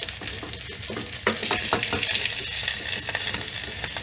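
A large steak sizzling in a frying pan on a stove: a steady hiss with irregular crackling pops.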